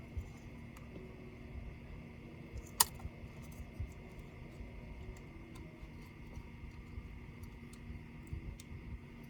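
Small scattered clicks and taps of laptop parts and tools being handled during disassembly, with one sharp click about three seconds in, over a faint steady hum.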